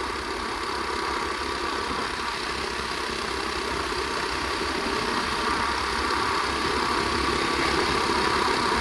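Flywing pit bike's small single-cylinder four-stroke engine running steadily, getting a little louder near the end.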